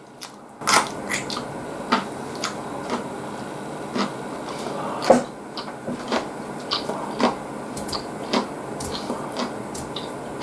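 Close-miked chewing: irregular wet mouth smacks and clicks as food is chewed, starting just after a brief quiet moment.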